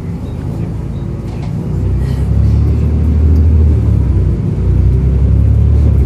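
Volvo B7RLE bus's six-cylinder diesel engine running with a low rumble that grows louder about two seconds in as the bus pulls away and accelerates.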